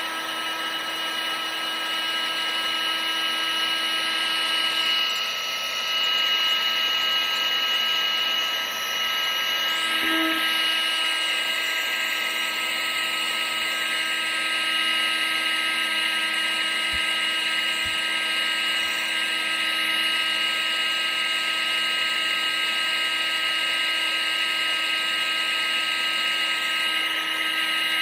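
Vacuum cleaner motor running continuously: a steady high-pitched whine over a rush of air, with small shifts in tone now and then.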